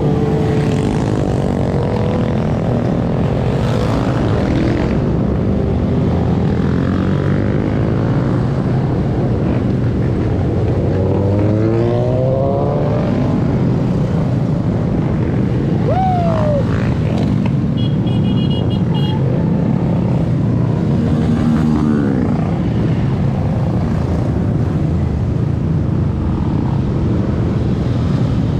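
Mini bike engines running and revving, the pitch climbing and falling several times over a steady low rumble.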